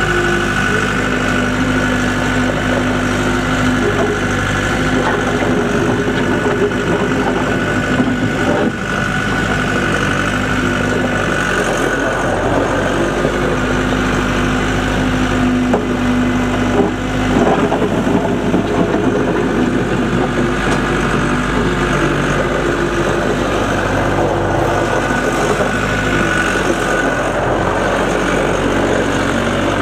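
Case 1845C skid steer loader's Cummins diesel engine running at a steady speed, with a steady high whine over the engine note.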